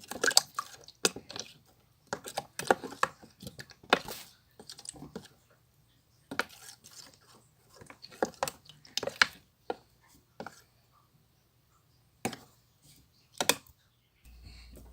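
Clear slime being worked, making irregular sticky clicks and pops, some in quick clusters, with a quieter pause about two thirds of the way through.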